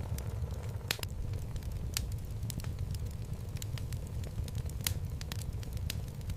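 Wood logs burning in a home fireplace: a steady low rumble of flame with irregular sharp crackles and pops, the loudest about a second in and near five seconds.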